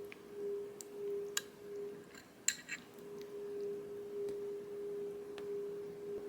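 A steady mid-pitched hum that pulses on and off for the first two seconds, then holds as one even tone, with a few light clicks and clinks.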